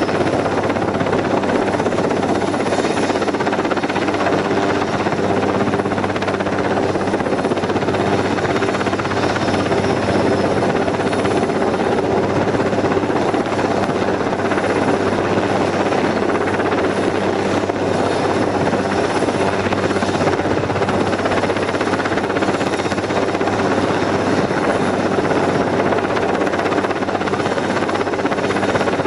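Helicopter running steadily, its rotor and engine making a constant loud noise with a low, even hum and no change in pitch or level.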